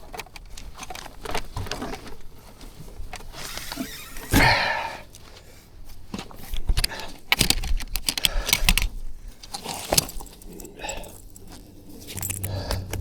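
Handling of gear and small objects: an irregular jumble of clicks, knocks and rustling. The loudest burst comes about four seconds in, and another busy stretch comes around seven to nine seconds.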